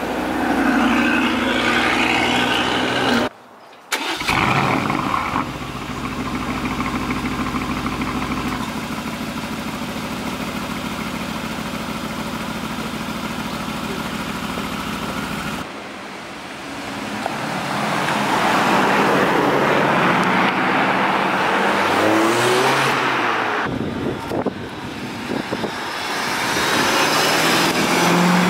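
A run of different car engines joined by hard cuts. First a Range Rover Sport's V8 pulling away. Then an Aston Martin Vantage flaring loudly as it is started and settling into a steady idle, followed by an Aston Martin V8 Vantage revving and driving past close, its engine note rising.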